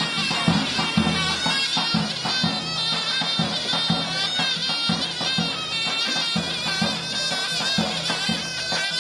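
Turkish folk music played loud: a reedy wind instrument holds a wavering, ornamented melody over steady, repeated drum beats.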